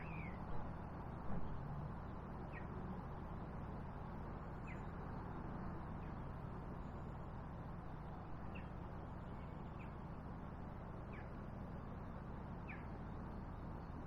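A small bird calling: short, high chirps that slide downward, repeated every second or two over a steady rushing background. Two brief knocks come about half a second and a second and a half in.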